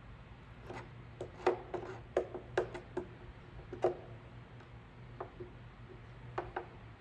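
Light clicks and short scrapes of a hand tool working a plastic repair with welding sticks, about a dozen in quick succession and then a few more, over a steady low hum.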